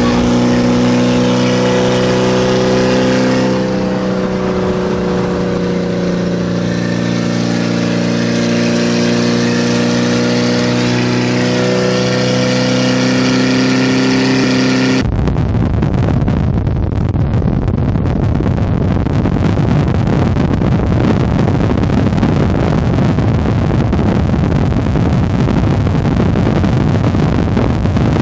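Car engine and exhaust droning steadily at highway cruise, its pitch drifting slightly. About halfway through it changes abruptly to a loud rough rumble of road and wind noise with no engine note.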